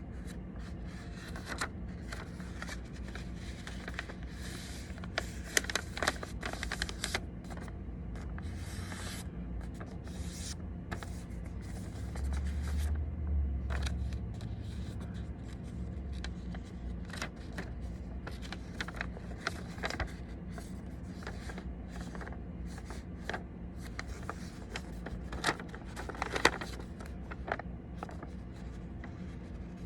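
A sheet of origami paper being folded and creased by hand: scattered crinkles, rubs and light taps of the paper, some in quick clusters.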